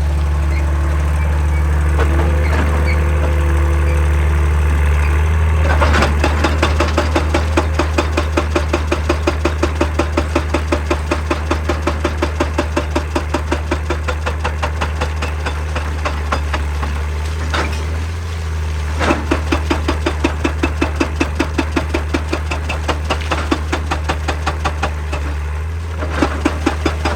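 Excavator's diesel engine running steadily, with a hydraulic rock breaker hammering rock in a rapid, even beat from about six seconds in. The hammering stops briefly twice, once partway through and once near the end, and starts again each time.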